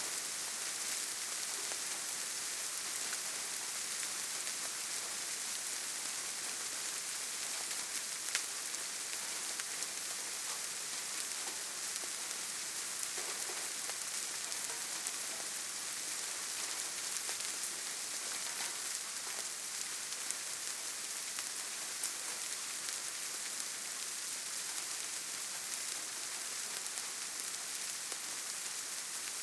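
Steady rainfall with a constant hiss and scattered individual drops ticking, one a little sharper about eight seconds in.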